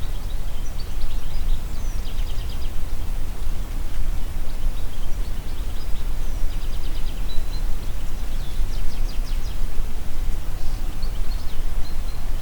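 Wind in the trees, a steady low rumble and rustle, with small songbirds chirping and giving quick rapid trills several times, notably about two, seven and nine seconds in.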